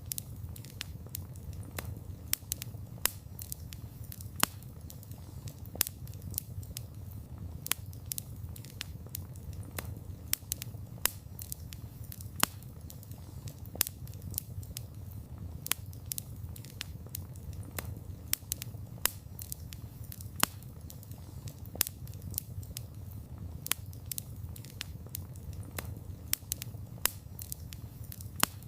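Wood fire burning, with a steady low rumble under irregular crackles and sharp pops, several a second, some much louder than the rest.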